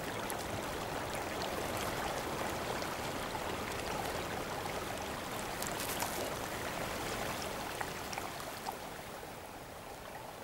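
Steady rushing of a small mountain stream, with a few faint clicks over it.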